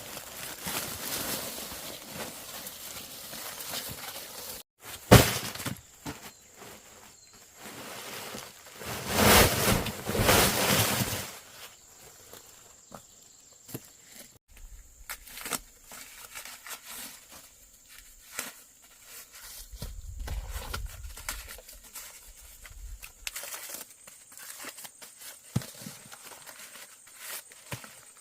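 Dry corn leaves and stalks rustling and crackling as they are handled, with footsteps, one sharp crack about five seconds in, and a louder stretch of rustling around nine to eleven seconds.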